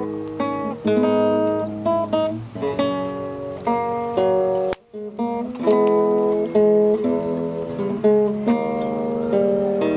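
Acoustic guitar playing a slow chord progression, the chords changing every second or so and left to ring, with a brief break about halfway through.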